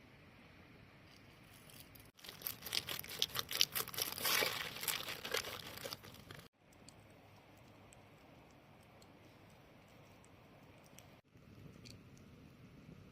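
Crinkling and tearing of a crisp material being handled, a dense run of small crackles lasting about four seconds, followed by quieter handling with a few light clicks.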